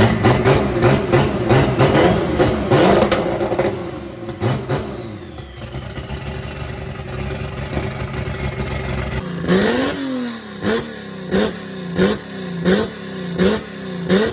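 Chevrolet Opala engines rumbling loudly as they are revved. The first part has quick, rapid throttle stabs, several a second, which die down to idle. After a sudden cut about two-thirds of the way in, an engine is blipped again and again, each rev rising and falling in pitch about once every two-thirds of a second.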